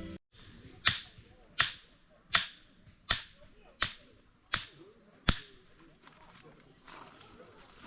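Seven sharp clicks at an even pace, about one every three quarters of a second.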